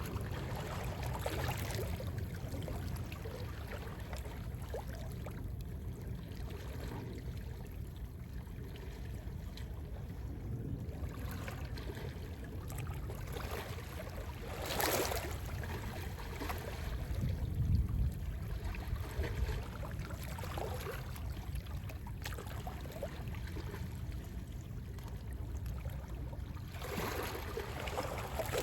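Calm sea waves washing in, a few of them swelling louder, about 15 seconds in and again near the end, over a steady low rumble of sea wind.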